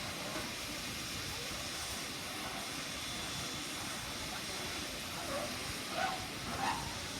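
Steady hiss of steam from a standing steam locomotive, with faint voices of people near the end.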